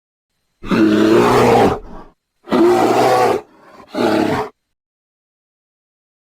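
Tiger roaring three times: two long roars and a shorter third one.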